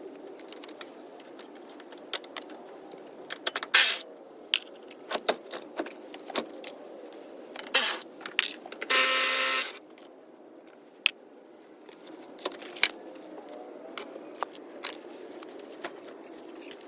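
Metal hand tools clicking and clinking as interior bolts are worked loose, with a short burst of rapid ratchet clicking about nine seconds in.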